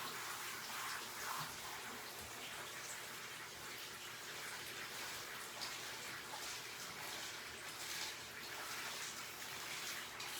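Water spraying steadily from a bathing-tub sprayer onto a dog's wet coat, an even hiss.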